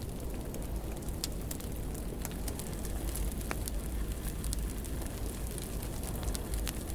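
Wood fire in a fireplace crackling, with scattered sharp pops over a steady low rumble of the flames. A short faint whistle comes about halfway through.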